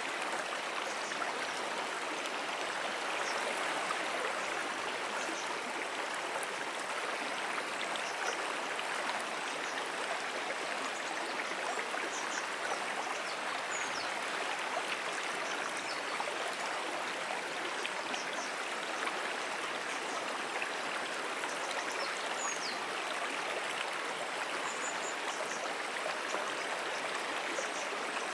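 A brook flowing steadily: an even rush of running water with no letup. Faint, short, high chirps come through now and then.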